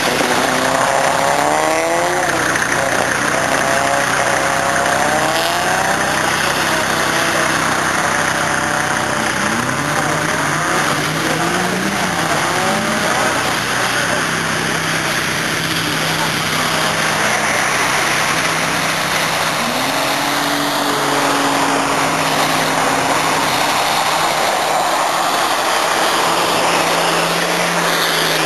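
Car engines revving up and falling back again and again as cars skid around an ice track, with one engine held at a steady pitch for a few seconds past the middle. A steady hiss runs underneath.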